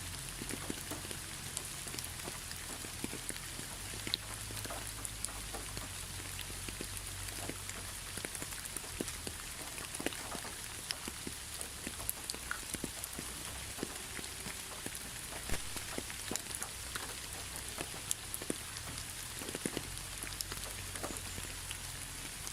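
Steady rain falling, with many individual drops ticking sharply close by over an even hiss.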